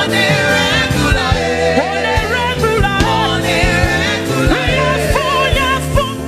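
Live gospel band music with bass and drum hits keeping a steady beat, and a voice sliding through runs over it.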